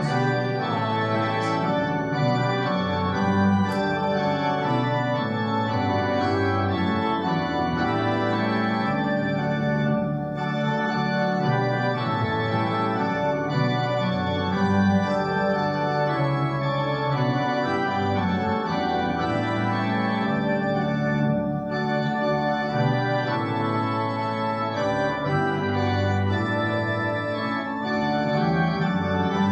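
Church organ playing a continuous piece of sustained chords that change every second or so, with no break.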